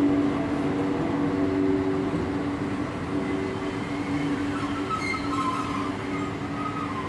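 Thalys high-speed trainset rolling slowly past along a station platform: a steady electrical hum that fades over the first few seconds, with faint high-pitched squealing from about five seconds in.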